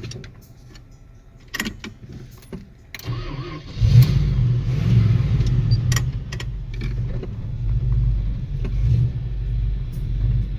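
A few clicks, then about four seconds in the truck's 360 Plymouth V8 starts with a sudden burst and settles into a steady low running sound.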